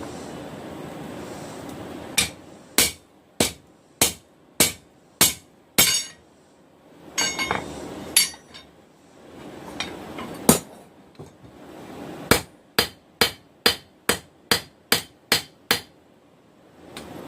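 Hand hammer striking hot steel on an anvil while forging a knife blade. A run of about seven evenly spaced blows comes first, then a few lighter taps and one loud single blow, then a faster run of about ten blows.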